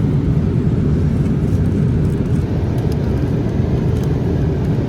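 Cabin noise inside a Boeing 787-8 airliner: a steady low rumble.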